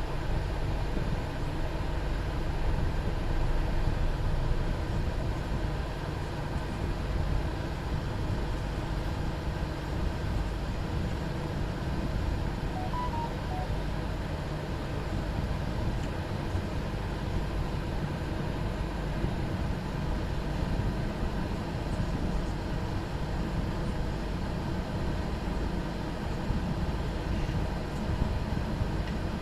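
Steady low rumble of a moving vehicle, running evenly without change.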